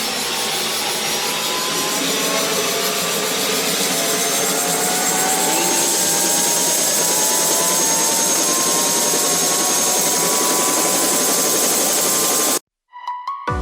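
Tour helicopter's turbine engine and rotor running loud and steady, heard from inside the cabin, with a whine that slowly rises in pitch. The sound cuts off abruptly near the end.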